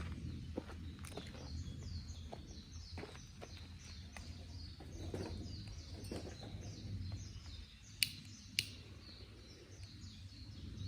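A songbird singing a long run of quick, high chirps, each note falling in pitch, over a low outdoor rumble; two sharp clicks about half a second apart come around eight seconds in.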